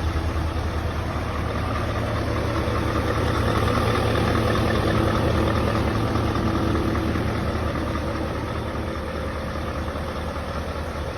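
Scania S770's V8 diesel engine idling steadily with a deep, low-pitched sound, swelling slightly a few seconds in and easing off a little toward the end.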